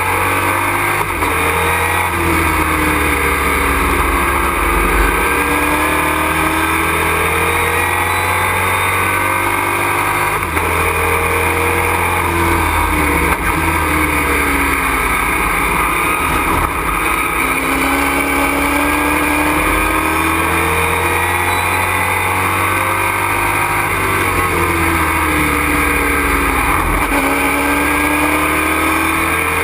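Super Truck race truck engine heard from inside the cockpit at racing speed, its pitch rising and falling again and again as it accelerates and drops back, over constant loud cabin and road noise.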